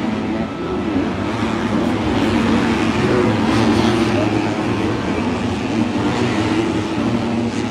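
Motocross dirt bikes running around the track, a continuous blend of engines rising and falling in pitch.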